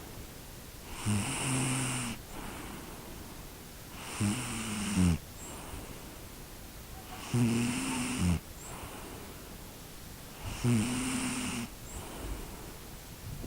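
A sleeping dog snoring: four rasping snores, each about a second long and about three seconds apart, with quiet breathing between.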